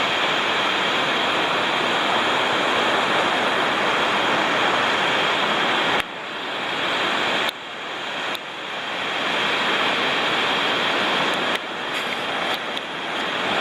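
Waterfall water rushing in a steady, dense roar, broken a few times by sudden dips in level that build back up.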